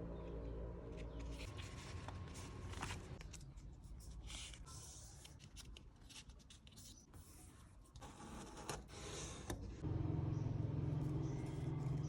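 Sheets of printed art paper being handled and rustled, with scattered light clicks and scrapes; a low steady hum comes in about ten seconds in.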